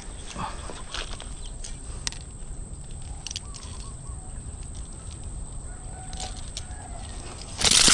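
A freshly landed snakehead thrashing and flapping while it is handled and unhooked, with scattered clicks and rustles from the handling. A short, loud burst of flapping or rustling comes near the end.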